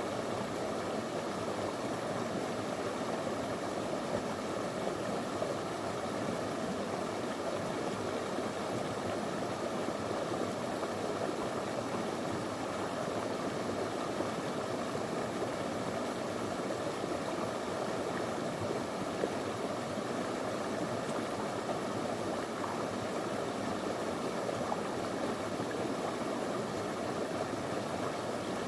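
Small river flowing over stones: a steady, unbroken rush and babble of water.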